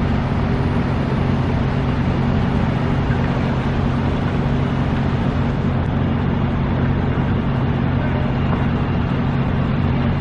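Quadcopter drone hovering: its propellers give a steady, even hum with constant low tones.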